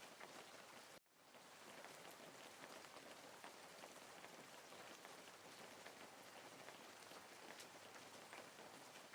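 Faint, steady rain, with fine drop ticks through the patter. About a second in it cuts out for an instant and fades back up.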